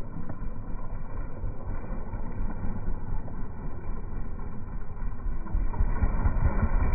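Motocross dirt bike engine running, heard as a low, uneven rumble with wind buffeting the microphone.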